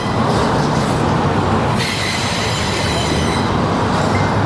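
Norfolk Southern freight train rolling past close by: a steady rumble of the cars with thin, high wheel squeal that grows stronger about two seconds in.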